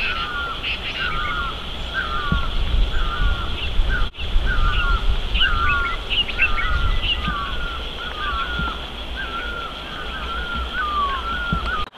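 Birds calling: one bird repeats a short warbling call about twice a second, with scattered higher chirps from another bird above it. A low rumble runs underneath, strongest in the middle seconds.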